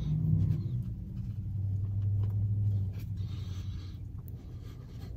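A person biting into and chewing a chili mac and cheese hot dog, the chewing faint over a low steady hum inside a car.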